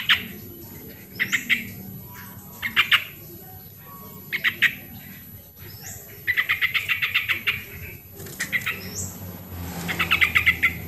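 Yellow-vented bulbul (trucukan) singing: short bubbling phrases of rapid chattering notes about every one and a half seconds, with a longer run about six seconds in. A few brief high upward-sweeping notes fall between the phrases.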